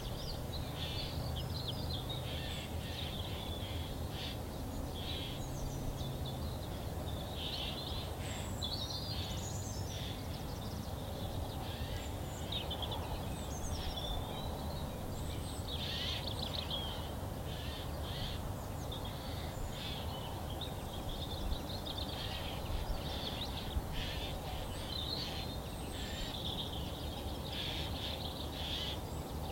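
Several wild birds singing and calling, with short chirps and trills following one another, over a steady low background rumble.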